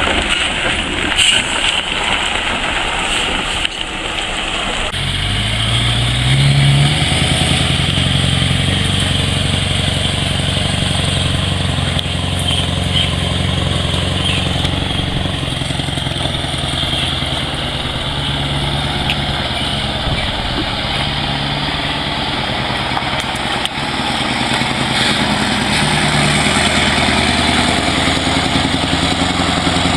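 A truck engine running. It revs up about six seconds in, then holds a steady pitch.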